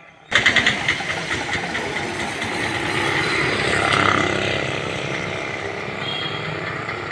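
Moderate rain falling on a wet street, mixed with the noise of motor traffic. The sound cuts in abruptly just after the start and swells briefly around four seconds in, as a vehicle goes by.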